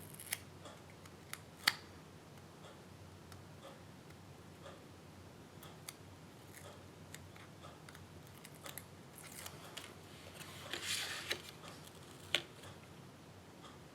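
Handling of paper and small craft tools on a desk: scattered light clicks and taps, with a spell of paper rustling about ten seconds in and a sharp tap shortly after.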